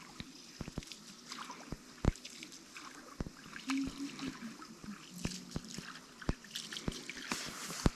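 Faint trickling and lapping of river water, with scattered small clicks and knocks, the sharpest about two seconds in.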